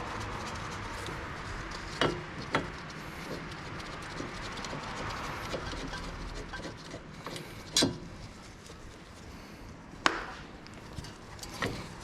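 Metal tools and parts knocking and clinking during hands-on work on a car's front brake. There are about five sharp knocks spread out over a steady background hiss, the loudest a little past the middle.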